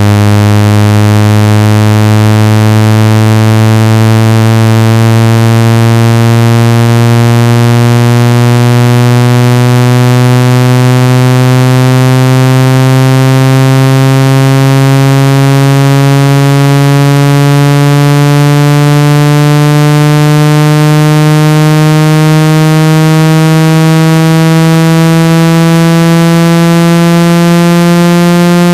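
Loud electronic speaker-cleaning tone for driving water out of a phone or earphone speaker: a harsh, buzzy tone with many overtones, slowly rising in pitch throughout.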